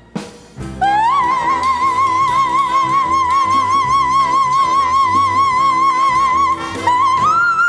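Live Latin dance band music: after a brief break, a single long high note is held with wide vibrato over the band, then steps up to a higher held note near the end.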